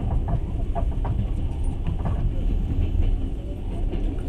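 A moving train's steady low rumble, heard from inside the carriage, with scattered short clicks and knocks from the wheels and running gear.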